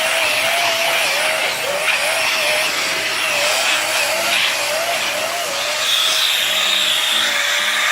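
Dyson vacuum cleaner running steadily while being run over a dog's coat, with a strong airy hiss and a motor whine that wavers up and down in pitch; a higher whine joins about six seconds in.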